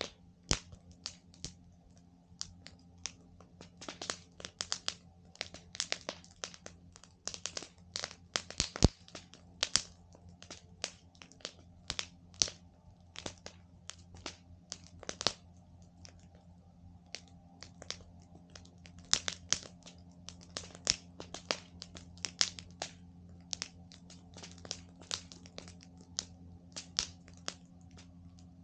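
Wood campfire crackling, with irregular sharp pops several times a second and a louder snap about nine seconds in.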